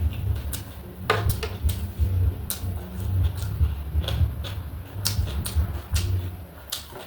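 Close-up eating sounds: chewing with many quick, irregular crunchy clicks, over a steady low rumble.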